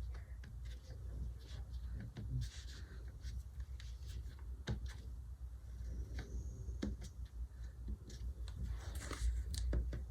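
Scattered small taps, clicks and short paper rustles and scratches from hands working on a paper planner page with stickers and a pen, over a steady low hum.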